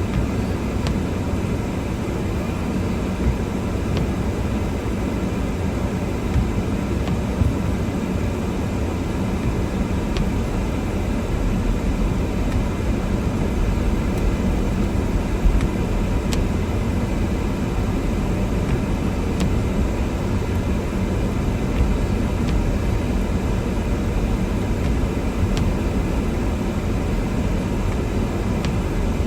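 Steady low rumble of a car driving, heard from inside the cabin: engine, tyre and wind noise running evenly, with a few faint ticks.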